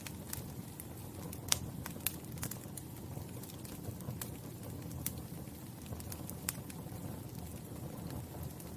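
Wood fire burning with a steady low rumble and irregular crackles and pops, the sharpest about a second and a half in.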